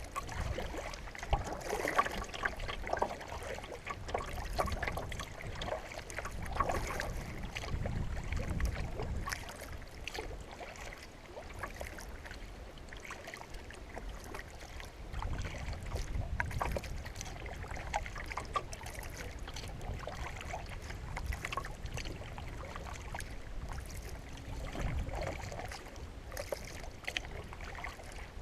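Water splashing and trickling around a canoe, with gusts of wind rumbling on the microphone that swell and fade several times, and scattered light knocks.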